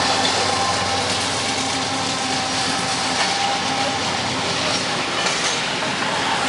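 Canadian Pacific Holiday Train rolling past, its wheels running on the rails, with a faint steady tone that stops about four seconds in.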